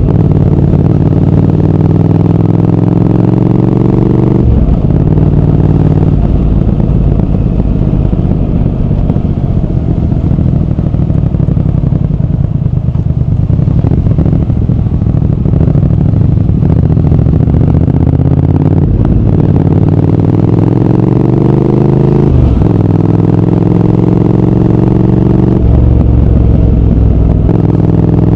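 Triumph Speed Twin 1200's parallel-twin engine and exhaust under way, its pitch climbing as it pulls through the gears, with upshifts a few seconds in and twice near the end. In the middle it runs rougher, without a clear rising pitch.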